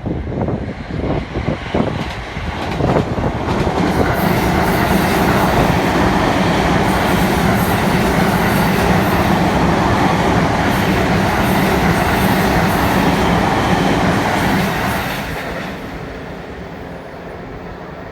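Train passing close by on the Joban Line: the running noise builds over a couple of seconds, holds steady and loud with a low hum for about twelve seconds, then fades away. Wind buffets the microphone at the start.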